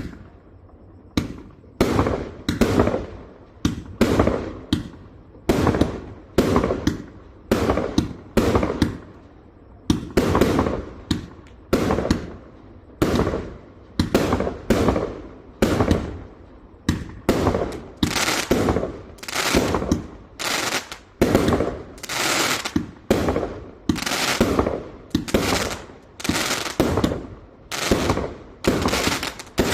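A 168-shot assorted firework cake firing shot after shot in a steady series of sharp bangs, each fading away, about one and a half a second at first and quickening to about two a second in the second half.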